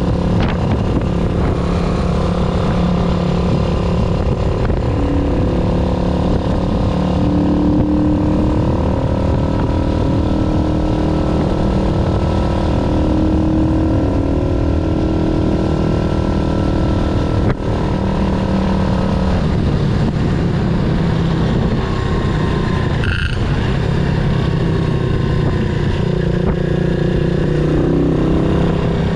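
Yamaha SR400's air-cooled single-cylinder engine running under way, its pitch rising and falling several times with throttle and gear changes. A sharp click about two-thirds of the way through.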